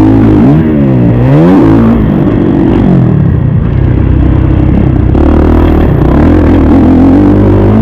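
Kawasaki KX450 four-stroke single-cylinder motocross bike engine under hard riding: the revs rise and fall quickly several times in the first couple of seconds, then it pulls at steadier revs.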